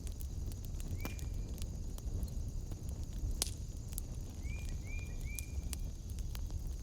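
Wood fire burning in a fireplace, crackling with scattered sharp pops over a low rumble and a steady high hiss. A few short chirps sound through it, one about a second in and three in quick succession near the five-second mark.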